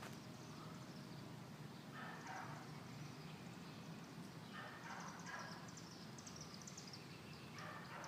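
Faint bird calls, short chirpy bursts a few seconds apart, over a low steady hum.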